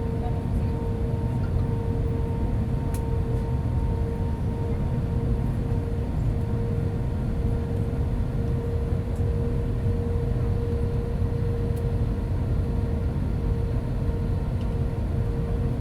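Steady cabin noise of an Airbus A320 with IAE V2500 engines heard from a window seat over the wing: a constant low rumble of engine and airflow with a steady hum-like tone running through it.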